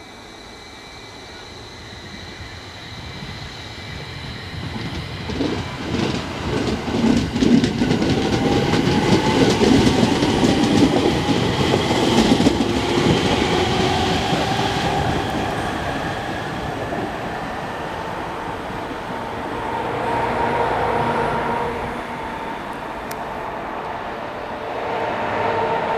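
A JR East 701 series electric train running in alongside the platform. The wheels clatter over the rail joints as it comes close, with a gliding whine from its electric motors. The sound then slowly fades as it moves away.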